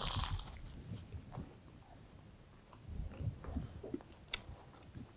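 A person biting into a reheated flaky pastry and chewing it, with a short crunch as the bite is taken at the start, then faint chewing sounds.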